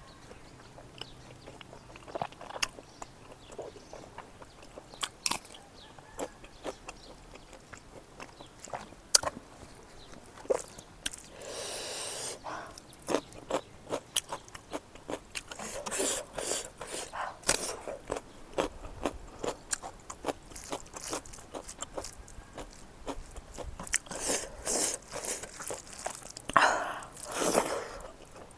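Close-miked chewing of fatty smoked pork and rice, with many small wet smacking clicks of the mouth, and a few louder crunching bites of raw bitter gourd.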